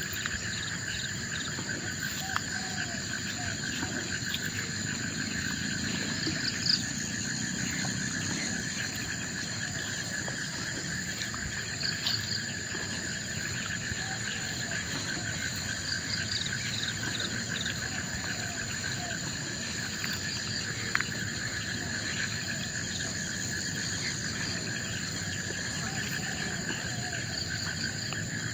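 Forest insect chorus: several insects trilling steadily at different high pitches, one of them a fast pulsing trill, with faint short calls from other animals now and then and a few sharp clicks.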